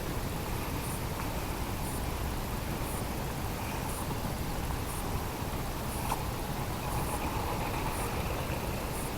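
Steady low rumbling noise with no clear events, with faint light ticks about once a second.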